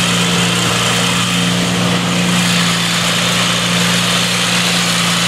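Lawn tractor engine running at a steady speed, a constant hum that holds the same pitch throughout.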